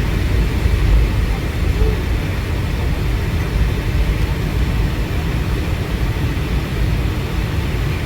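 Steady low rumble of a Boeing 757-200 heard from inside the passenger cabin: engine and airframe noise with an even hiss over it.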